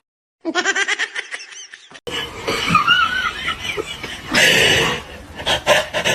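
People laughing in short rhythmic bursts, cut between two clips, with a louder burst of laughter a little after four seconds in.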